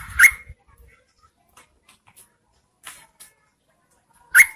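Yellow-vented bulbul calling: two short, loud, rising notes right at the start, faint scattered chips after them, and another loud call near the end. These are a female's calls, of the kind used as a lure to draw males to answer.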